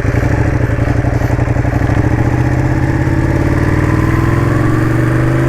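Ducati motorcycle engine running steadily, its pitch rising slowly through the second half as the revs pick up.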